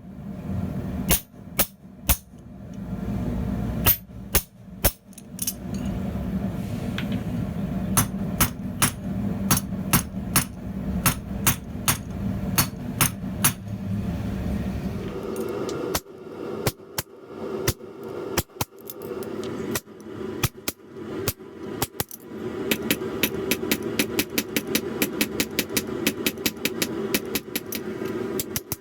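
Blacksmith's hammer striking hot steel on the anvil, working the rod's shoulders, likely with a guillotine tool. The blows come about once a second at first, then in quick runs of three or four a second in the second half, over a steady drone.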